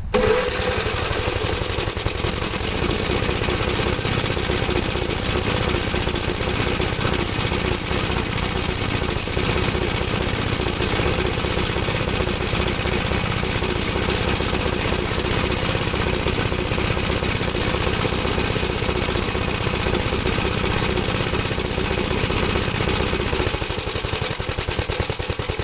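A 1973 Gravely C8 engine starts abruptly from cold and runs roughly with a fast, uneven beat. A spark tester is in the ignition lead, and the engine is misfiring and popping, which the owner takes for an ignition problem.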